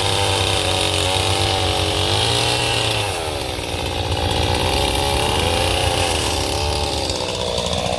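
Chainsaw running, its engine pitch rising and falling several times as the throttle is opened and eased.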